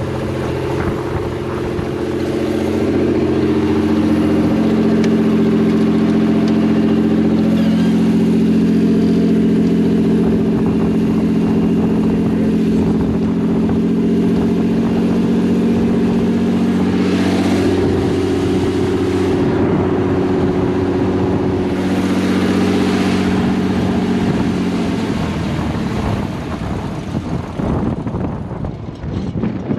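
An engine running at a steady speed. It grows louder over the first few seconds, then dies away about 25 seconds in.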